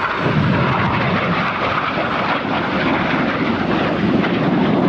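Jet engine noise from a formation of BAE Hawk T1 jets flying over, a loud steady rushing sound with no break.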